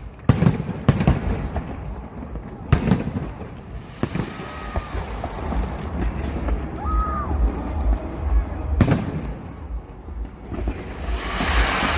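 Fireworks display: sharp aerial shell bangs, two within the first second, one near three seconds and one near nine seconds, over a background of crowd voices. Near the end a broad hiss swells up.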